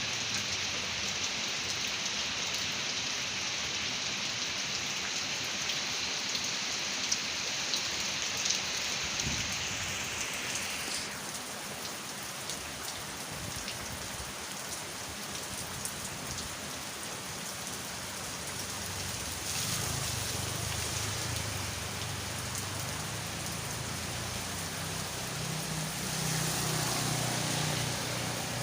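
Heavy rain falling steadily onto a flooded road, a constant hiss. From about two-thirds of the way in, the low hum of a passing vehicle's engine rises under the rain and is loudest near the end.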